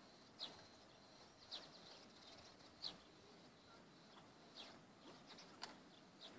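Near silence: faint outdoor ambience with five short, high, falling bird chirps about one to one and a half seconds apart, and a single sharp click near the end.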